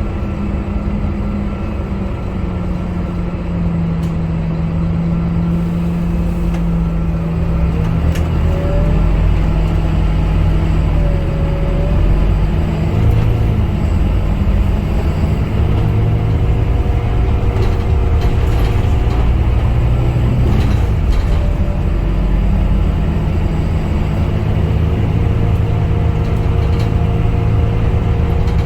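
Scania K250UB city bus running under way: its diesel engine drones steadily under heavy low road rumble. The engine note shifts in pitch, and it gets louder about eight seconds in and then holds.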